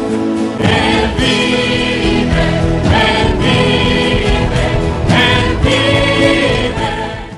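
Choral religious music with voices singing, cut off abruptly at the end.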